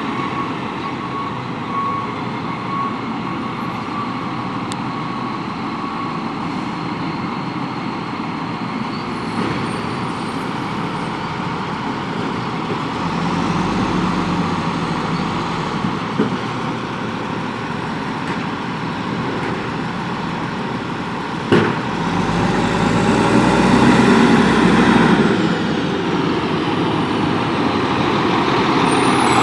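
Volvo WXLL garbage truck with a Labrie Expert 2000 automated side-loader body running, its backup alarm beeping in the first few seconds. About twenty seconds in there is a sharp knock, then the truck runs louder for a few seconds.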